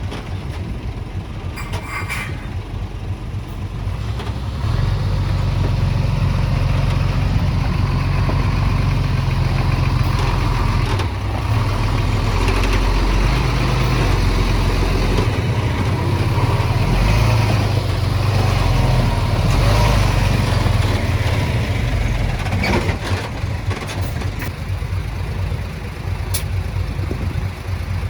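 Heavy-equipment diesel engine running, growing louder about five seconds in and easing off again after about twenty seconds, with a few sharp knocks.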